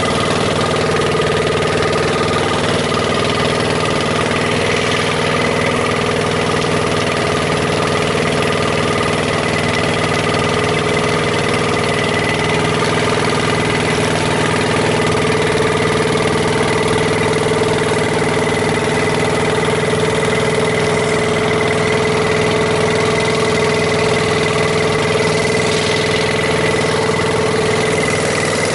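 Longtail boat's engine running steadily, its pitch and level unchanging, with a haze of rushing noise over it.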